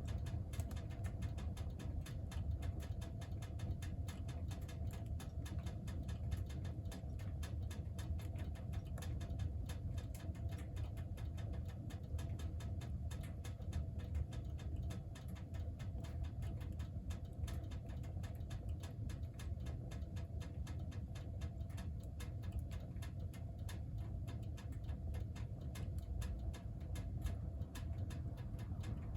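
Firewood burning in a wood stove: a steady low rumble of the fire with constant fine, irregular crackling.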